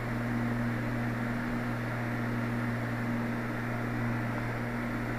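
Steady drone of a twin-engine Cessna's engines and propellers in cruise, picked up by a microphone inside the pilot's headset: an even low hum with a faint higher tone over a layer of hiss.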